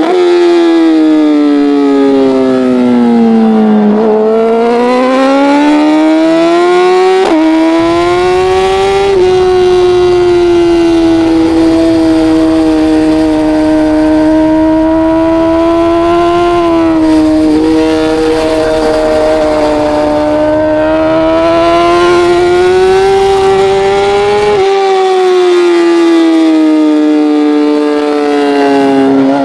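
Racing motorcycle engine heard onboard at race speed. The revs drop over the first four seconds, climb back to a gear change about seven seconds in, then hold fairly steady under a rushing noise until another step down near the end.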